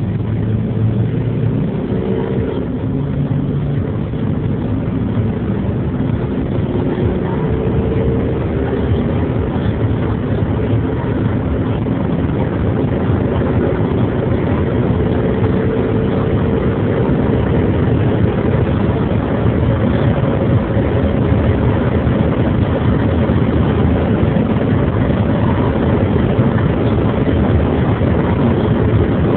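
Land Rover Discovery III's 2.7-litre TDV6 turbodiesel V6 under hard acceleration, its engine note climbing and dropping back at each gear change. Road and wind noise build steadily as speed rises.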